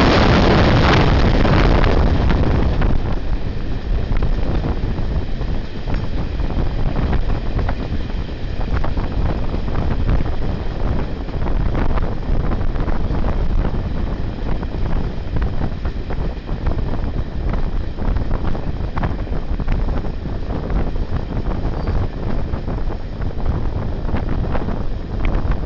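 A passenger train running, heard from an open carriage window: wind rushing over the microphone with running noise and irregular clicks from the wheels on the track. It is loudest for the first two or three seconds, then settles to a steady level.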